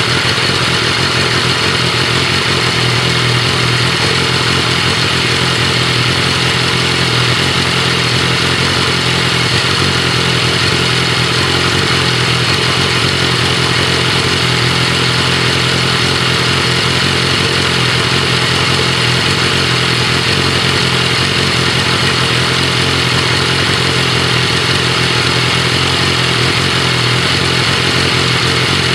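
BMW S1000RR inline-four sportbike engine idling steadily through a Graves titanium slip-on exhaust.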